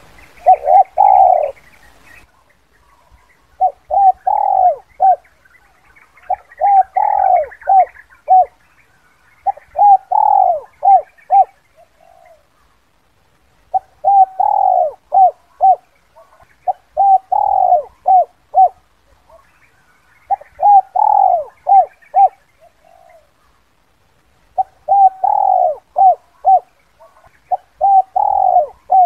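Spotted dove giving its 'kuk 2' cooing call: a phrase of several short coos, repeated roughly every three to four seconds.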